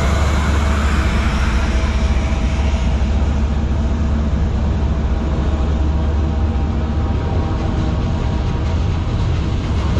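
A diesel freight locomotive passes in the first couple of seconds, then autorack cars roll by at speed with a steady, heavy low rumble of wheels on rail.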